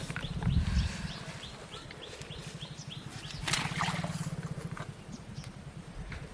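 A bird calling with a quick run of short falling chirps, about three a second, over a steady low pulsing background. A brief rustle or splash comes about three and a half seconds in.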